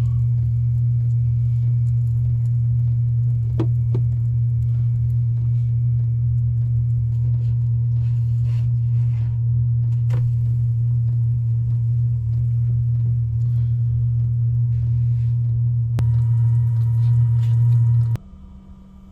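Steady low hum with a few faint clicks, cutting off abruptly near the end.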